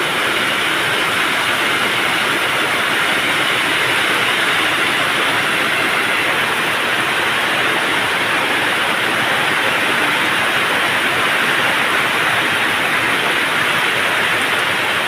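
Steady, loud rushing noise that runs on without a break or change, with no speech or tune in it.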